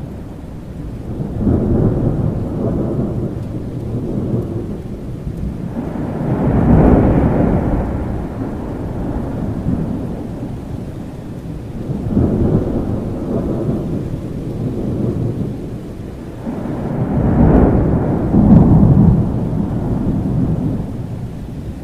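Thunderstorm: steady rain with thunder rumbling in about four long rolls that swell and fade, the loudest about a third of the way in and again near the end.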